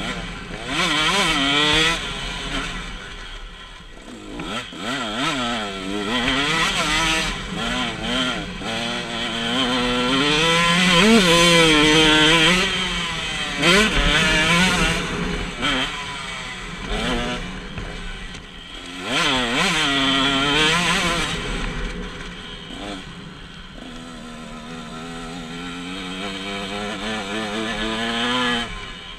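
KTM 125 SX two-stroke motocross engine ridden hard, its note climbing on the throttle and dropping off again over and over, heard from a camera mounted on the bike. It runs loudest around the middle.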